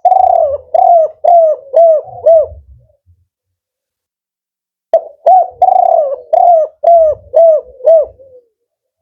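Male spotted dove (tekukur) of the 'kuk 4' song type cooing: two loud phrases, each a quick run of short hooting coos. The second phrase starts about five seconds in, after a pause.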